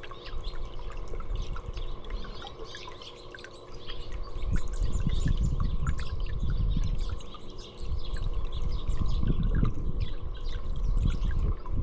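Small songbirds chirping and tweeting over and over. From about four seconds in, a loud low rumbling noise comes and goes in surges.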